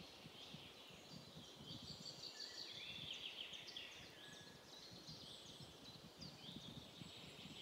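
Faint birdsong: a steady stream of short high chirps and trills.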